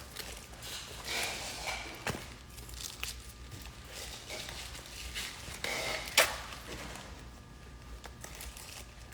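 Order-packing handling noises: rustling of packaging and light knocks of items being handled, with a sharp knock about two seconds in and a louder one about six seconds in.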